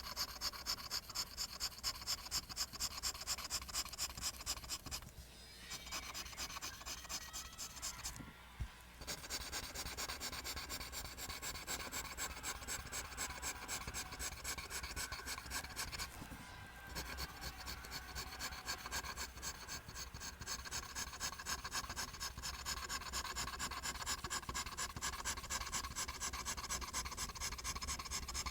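Pencil scratching on paper in quick, repeated line strokes, about three a second at first, with brief pauses a few times.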